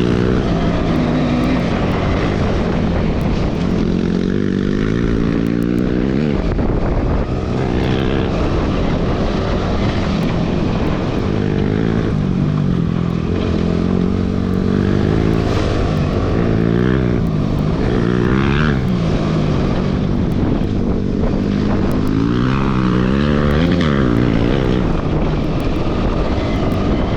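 Motorcycle engine running, its revs rising and falling again and again.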